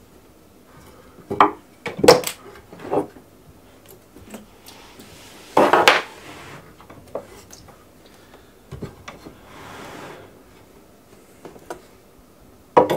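Scattered knocks and clatter of hard objects being moved and set down on a workbench while a rocking sharpening-stone pond is shimmed level, with a louder half-second scrape about six seconds in.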